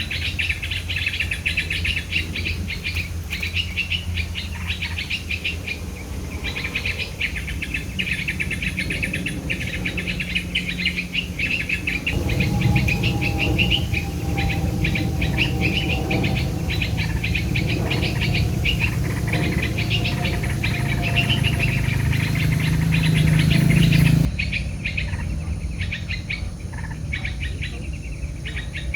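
Many small birds chirping rapidly and continuously, over a low outdoor rumble. The background changes abruptly about 24 seconds in, but the chirping carries on.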